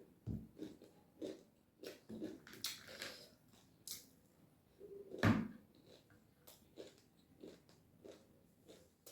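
Close-up mouth sounds of someone chewing and biting a mouthful of spicy Sadeko chauchau (seasoned instant noodles): soft irregular chewing and smacking, with one louder sound about five seconds in.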